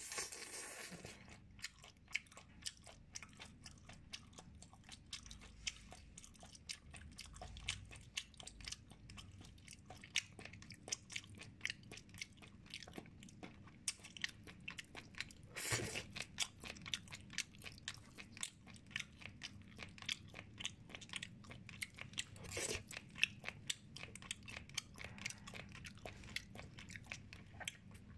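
Close-miked chewing and biting of steamed chicken: a steady stream of quick, wet mouth clicks and crunches, with two louder bites, one about halfway through and one later.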